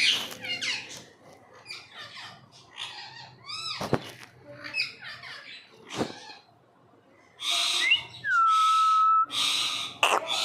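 Pet parrot calling: a run of short chirps and quick rising and falling whistles, then harsh screeches with one long whistle that drops and holds steady near the end.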